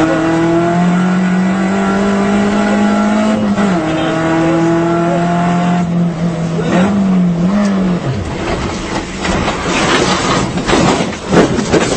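Race car engine running at a steady pitch, dropping a step about three and a half seconds in, briefly wavering, then cutting out about eight seconds in. Loud crashing and splashing with repeated hard knocks follows as the car goes into the lake.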